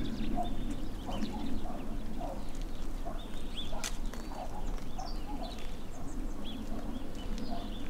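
Birds calling: many short, high chirps over a steady run of lower, repeated short calls. A single sharp click comes about four seconds in.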